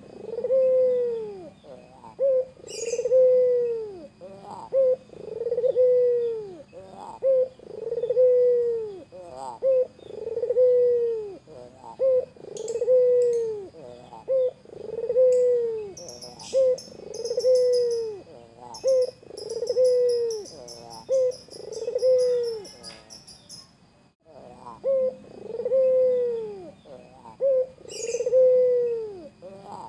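White Barbary dove (burung puter) cooing over and over, each call a short note followed by a longer rolling coo, about one call every second or so, with a brief pause about three-quarters of the way through.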